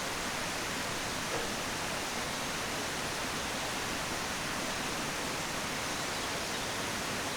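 Steady rush of running water, a constant even hiss that cuts in suddenly.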